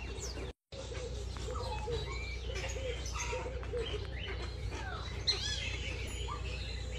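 Mixed birds calling: many short chirps, whistles and repeated warbling notes overlapping, over a steady low background hum. The sound drops out completely for a moment about half a second in.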